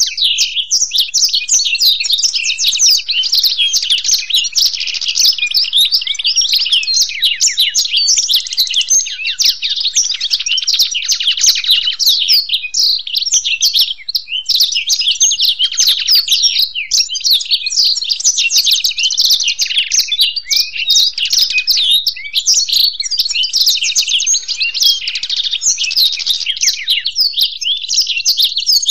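A blackthroat (black-throated canary) and a European goldfinch singing together without a break: a dense, unbroken run of fast, high twittering and trills.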